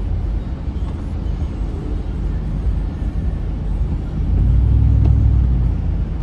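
Car road noise heard from inside the cabin while driving: a steady low rumble that swells louder about four seconds in.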